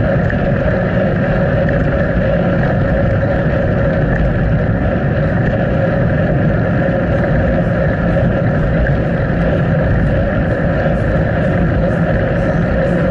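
Steady wind rush and low rumble on an action camera's microphone while riding a bicycle, with no letup.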